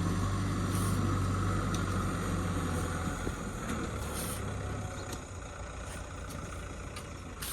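Kubota ZT 155 DI single-cylinder diesel walking-tractor engine running with a steady low hum, growing quieter from about three seconds in.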